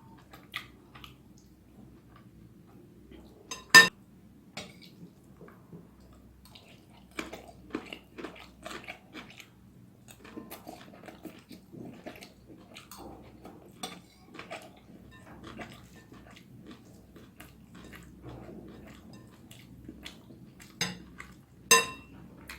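Close-up chewing of noodles, with many small wet clicks and cutlery tapping on a plate or bowl. Two much louder sharp clinks stand out, one about four seconds in and one near the end.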